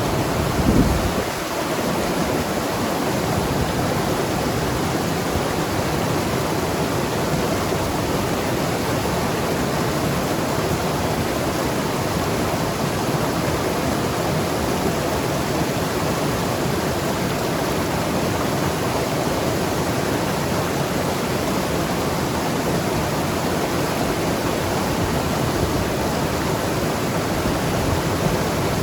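Mountain river rushing and gurgling over rocks, a steady, unbroken flow of water. A brief low thump comes about a second in.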